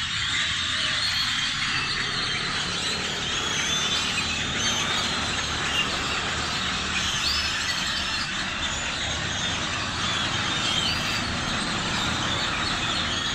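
A large flock of birds calling all at once, a dense, unbroken chatter of short chirps, over a steady low rumble.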